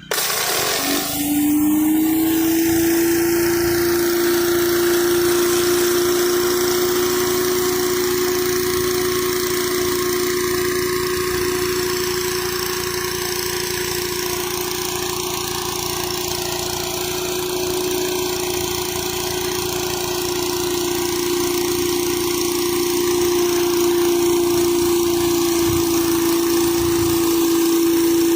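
Gas-powered pressure washer engine starting suddenly and coming up to speed within about a second, then running at a steady pitch with a hiss over it.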